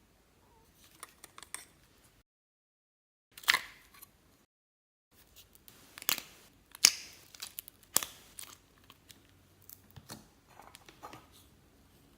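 Slime being squished and pressed by hand, making sharp sticky pops and clicks. Two short stretches of dead silence break it up.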